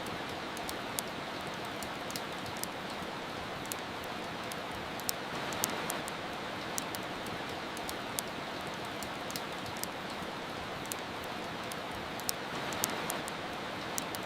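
Steady hiss of rain mixed with the irregular sharp crackles and pops of a wood fire, roughly two crackles a second.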